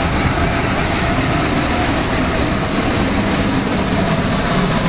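Train passing close by, a loud steady rumble with no break.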